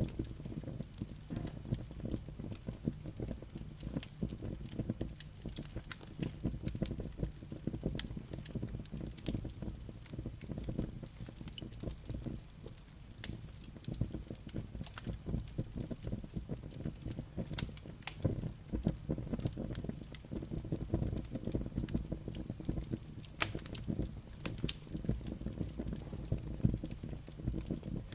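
Wood fire burning in a fireplace: a steady low rush of flames with many sharp pops and crackles from the burning logs and embers.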